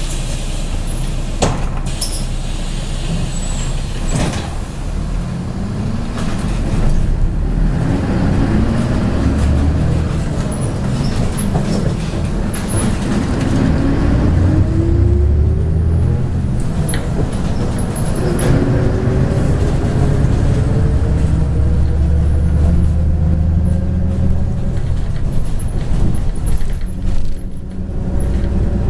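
MAZ-103 bus's diesel engine heard from inside the cabin, pulling away and accelerating, its pitch climbing twice as it works up through the gears, over a steady low rumble with scattered rattles and clicks.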